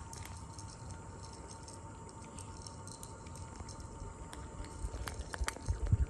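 Kittens eating, with soft wet chewing and smacking and small scattered clicks that grow busier and louder near the end. A faint steady high hum lies underneath.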